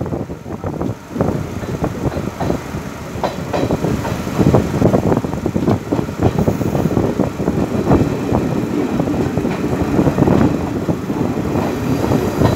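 Sri Lanka Railways Class S12 diesel multiple unit running along the line, heard from an open carriage window. A steady low rumble of wheels on rail comes with frequent, irregular knocks and clatter.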